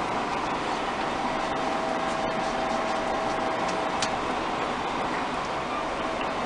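Steady background noise with a faint held hum and a few light clicks; no meowing.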